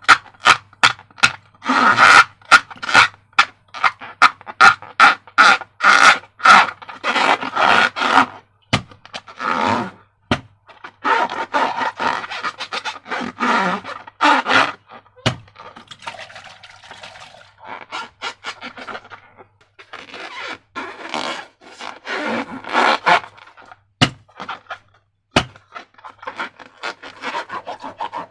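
Slime being squeezed and worked by hand in a rubber balloon, a long run of short, sticky crackles and squishes, fast and dense at first and then in looser clusters with brief pauses.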